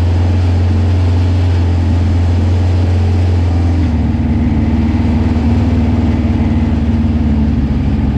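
Engine of a Honda-swapped pro truck running steadily, its note changing to a rougher, higher hum about four seconds in.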